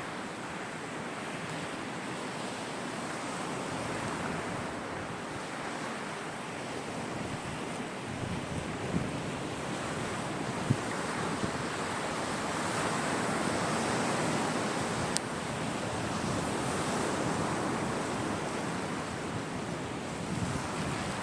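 Sea surf breaking and washing onto a beach, a steady rushing that swells a little over the middle, with a few short sharp clicks scattered through.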